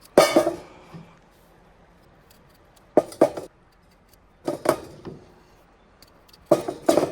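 A knife slicing potatoes on a cutting board: four short bursts of two or three sharp chopping strokes, each followed by a pause.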